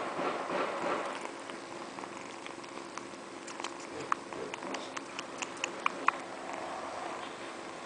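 Domestic cat purring close up, loudest over the first second, with a scatter of small sharp clicks and ticks in the second half.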